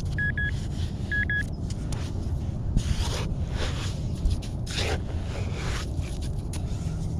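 Metal detector giving two short clusters of high beeps on a buried target, then two bursts of scraping as wet beach sand is dug out. A steady low rumble runs underneath.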